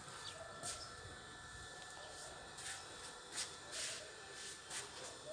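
Faint, irregular scuffing steps on a hard floor, each a short hiss, roughly one every half second to a second.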